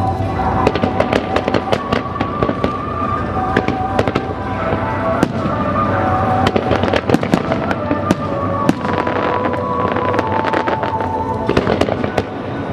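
Fireworks bursting in many sharp, irregular bangs and crackles over the show's music soundtrack, whose held melody runs underneath.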